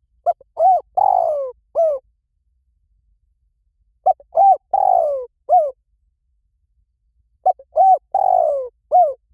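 Spotted dove cooing: three identical phrases about three and a half seconds apart. Each phrase is a few short coos, a longer coo that falls in pitch, and a final short coo.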